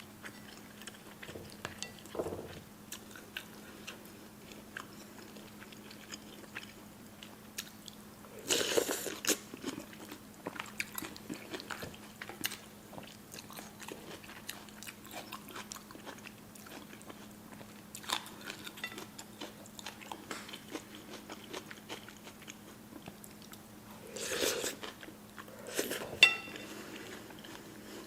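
Close-up eating of spicy noodles with shabu beef: soft wet chewing and mouth clicks, with two louder, longer eating noises, one about a third of the way in and one near the end, followed by a sharp click. A faint steady hum runs underneath.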